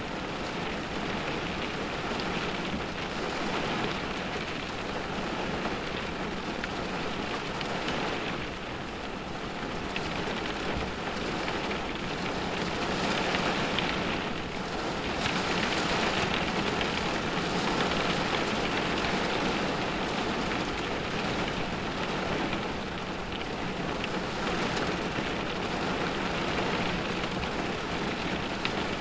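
Rain drumming on a car's roof and windows, heard from inside the cabin, a steady dense patter that swells a little louder midway as the wind drives it harder.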